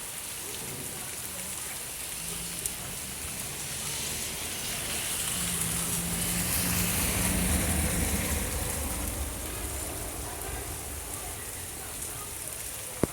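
Steady rain falling, a continuous hiss of drops. About midway a vehicle passes: a low engine hum swells and fades over about five seconds.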